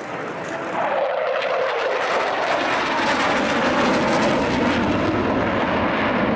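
Jet aircraft flying past, loud, its noise sweeping steadily down in pitch as it goes by.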